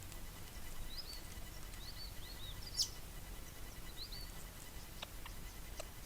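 Birds chirping: several short, high, arched chirps in quick succession, with one sharp click about three seconds in, over a low background rumble.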